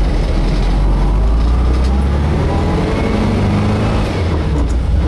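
VW bus's 1600 cc air-cooled flat-four engine pulling the bus down the road, heard from inside the cab: a steady low rumble whose pitch rises, then drops about four seconds in.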